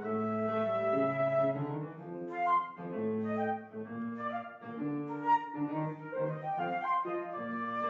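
A flute playing a classical-style melody with piano accompaniment: held notes over a moving bass line.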